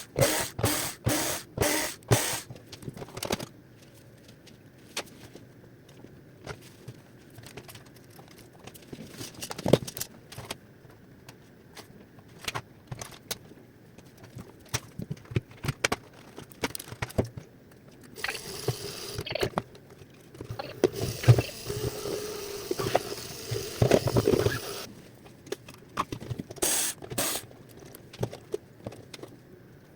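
Hands working on a robot vacuum's plastic housing and fan: scattered clicks, scrapes and rattles of parts and tools being handled. A run of quick, evenly spaced clicks comes at the start, and a longer, denser stretch of scraping and rattling comes in the middle.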